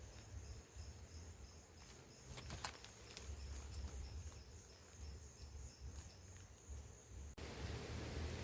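Faint insects chirping in a steady, evenly pulsing rhythm over a low outdoor rumble, with a couple of sharp clicks about two and a half seconds in.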